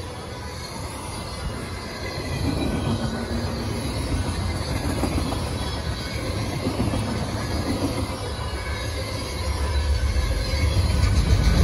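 Freight cars of a CSX freight train rolling past on the rails: a steady rumble of wheels on track with thin high wheel squeal, growing louder near the end.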